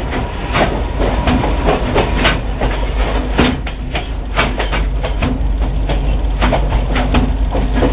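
Railroad passenger car rolling on the rails, heard from aboard the train. A steady rumble runs under frequent, irregular clanks and knocks from the wheels and couplings.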